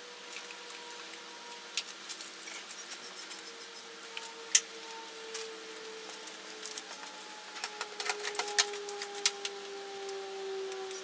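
Scattered light clicks and taps, coming more often near the end, over a faint hum that slowly drops in pitch.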